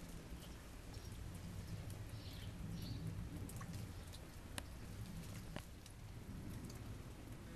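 Snowstorm ambience: a steady low rumble with scattered light ticks and patters of falling precipitation, and a couple of faint high chirps about two and a half seconds in.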